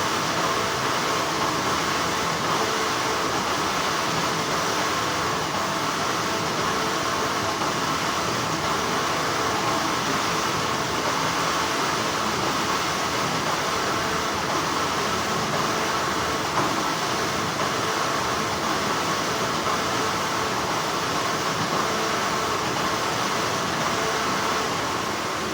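Continuous hum of textile factory machinery: a steady, noisy drone that holds even throughout.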